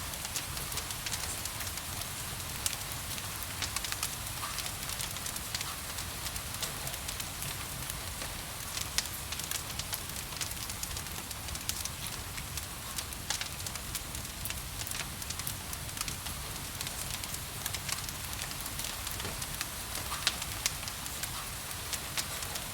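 Wood fire in a fireplace crackling, with frequent sharp irregular pops over a steady bed of rain hiss.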